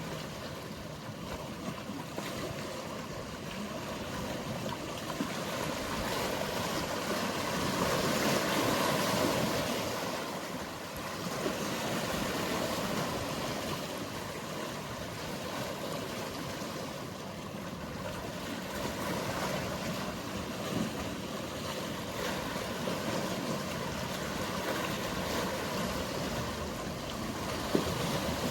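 Mediterranean sea waves washing, a steady rush of water that swells louder about a third of the way in and eases off again.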